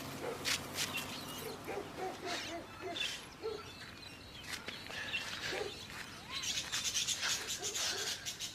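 Several birds chirping and calling, short separate calls that thicken into a rapid run of chirps near the end.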